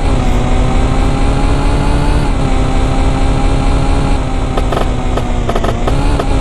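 Moped's small two-stroke engine running steadily, its pitch dipping slightly about two seconds in and rising again near the end, over a heavy low rumble.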